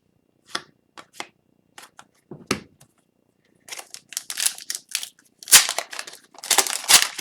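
Hockey card pack wrapper being handled and torn open: a few separate clicks and rustles, then dense crinkling from about four seconds in.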